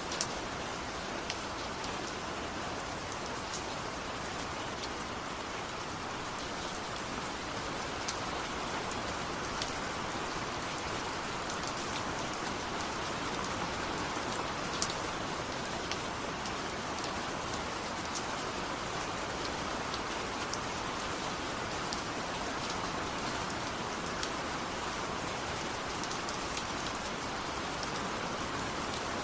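Steady rain falling, an even patter with scattered individual drops ticking sharply on a surface.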